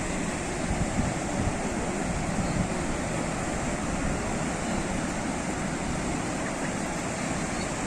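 Sea surf: waves washing onto the shore in a steady, unbroken wash of noise.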